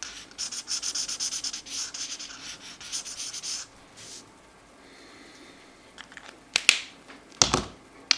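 Felt-tip marker nib rubbing back and forth on coloring-book paper in quick strokes, stopping after about three and a half seconds. A few sharp clicks and knocks near the end.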